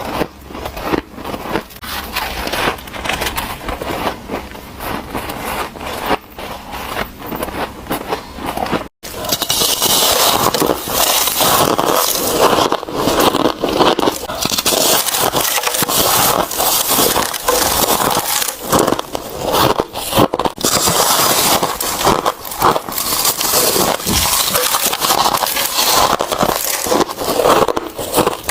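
Bite after bite into hard white ice, close to the microphone: a fast run of sharp cracking crunches. It cuts off abruptly about nine seconds in, then resumes louder and denser.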